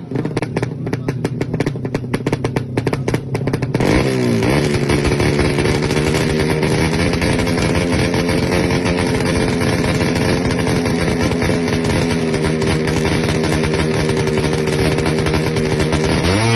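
Suzuki Satria FU's single-cylinder DOHC engine, bored out to 155cc, runs for about four seconds with a rapid, uneven popping beat. It is then revved up and held at a steady high speed, and the revs begin to fall right at the end.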